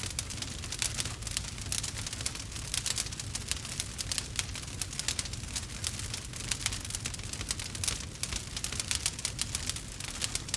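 Wood fire crackling in a fireplace: dense, irregular pops and snaps over a low steady rumble.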